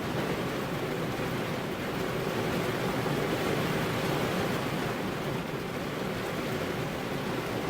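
Steady rain falling, a dense, even hiss that swells slightly a few seconds in.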